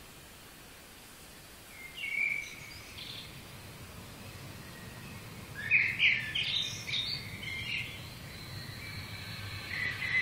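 Birds chirping in short calls, a couple at first and then a denser run of chirps about six seconds in, over a low steady background sound that slowly grows louder.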